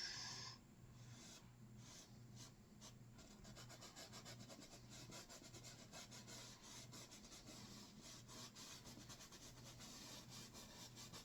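Faint, quick scratchy strokes of a paintbrush rubbing and dabbing over a canvas wet with oil paint, a dense run of short strokes.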